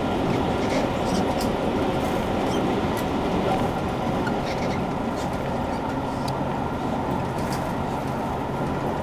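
JR Kyushu 883 series electric train with Toshiba GTO inverter running along the line, heard inside the car: a steady running noise of wheels, motors and gears. A low steady hum sets in about halfway.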